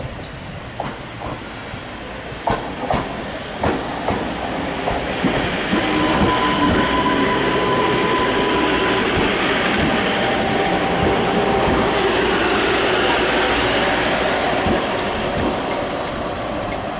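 Class 230 D-Train, a converted ex-London Underground D Stock diesel-electric unit, running into the platform. Its wheels click over rail joints several times in the first few seconds, then it grows louder into a steady running noise with a thin squeal as it slows past.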